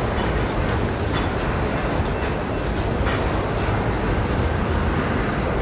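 Empty covered hopper cars of a grain train rolling slowly past: a steady rumble of steel wheels on the rails, with a few sharper clicks as the wheels cross the rail joints.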